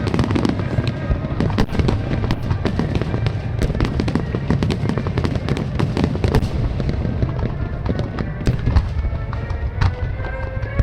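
Fireworks finale: a dense barrage of shells bursting, with rapid cracks and pops over a continuous low rumble of booms, thinning out in the last few seconds.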